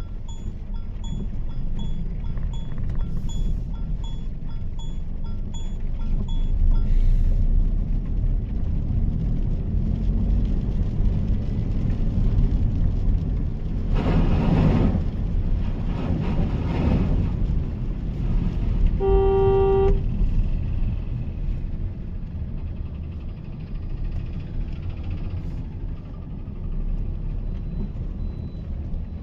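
Inside the cabin of a Mahindra XUV 3XO, a steady low rumble of the turbo-petrol three-cylinder engine and tyres on a wet city road. A turn-signal indicator ticks about one and a half times a second until about six seconds in. Two rushing swells come midway, and a car horn sounds for about a second a little after that.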